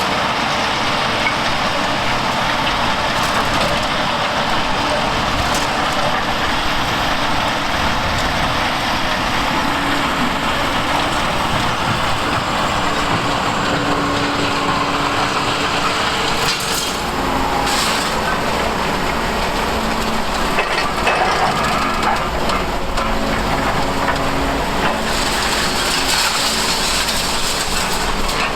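Large Liebherr tracked excavators running under load, with a steady engine drone and a continuous crunching and scraping of broken concrete as footings are demolished.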